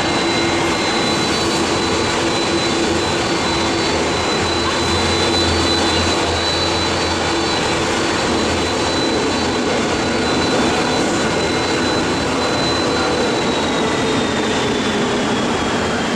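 Jet airliner engines running steadily, with a high turbine whine over the broad engine noise; near the end the whine drops in pitch.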